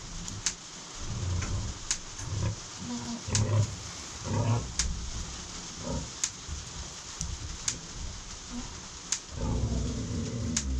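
Hereford sow giving a series of short, low grunts, with a longer grunt near the end. Scattered sharp ticks are heard between them.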